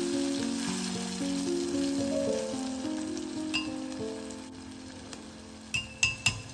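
Small squid sizzling and bubbling in a clay pot, a steady hiss that slowly fades. Near the end come a few light, ringing clinks. A soft melody of background music plays throughout.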